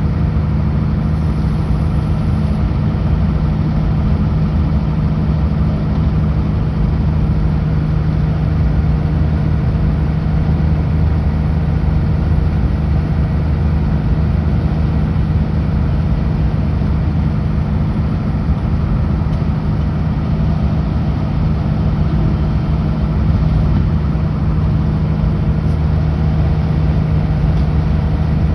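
Kenworth W900L truck's diesel engine running steadily under way on the highway: a constant low drone that holds the same pitch and level throughout.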